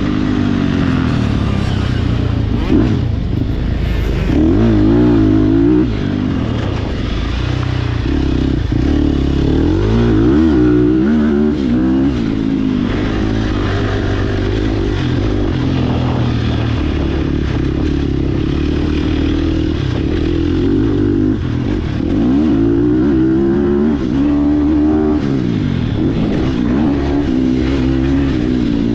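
Sherco SEF300 single-cylinder four-stroke dirt-bike engine being ridden hard, its revs climbing and dropping over and over as the throttle is opened and shut.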